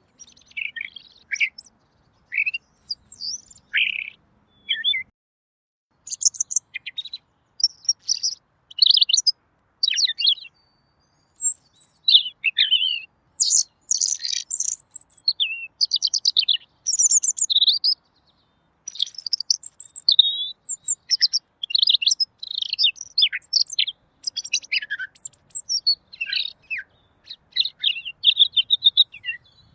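Pekin robin (red-billed leiothrix) singing clear, rapid, varied warbling phrases with short pauses between them.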